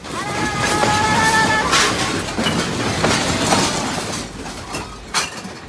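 Loud, continuous rattling and crashing with sharp breaking impacts about two, three and five seconds in, and a steady pitched tone held over the first second and a half.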